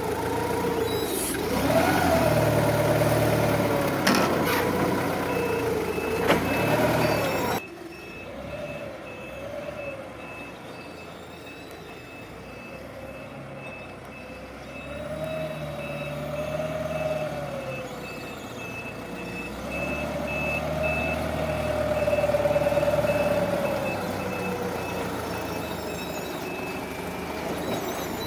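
Counterbalance forklift's engine running and revving up and down as it works, with its high-pitched reversing beeper sounding in a steady run of short beeps. The overall level drops abruptly about eight seconds in.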